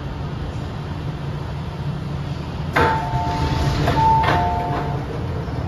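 MTR M-train interior with a steady low rumble. About three seconds in, a clunk starts a two-tone electronic door chime of alternating beeps lasting about two seconds, with a few more knocks from the doors.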